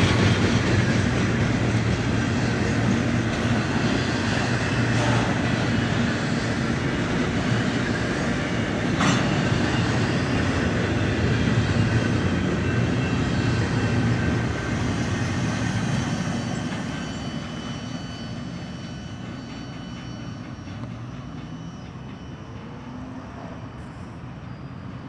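Double-stack intermodal well cars loaded with containers rolling past on the rail, with one sharp click about nine seconds in. The sound fades over the last several seconds as the end of the train goes by and draws away.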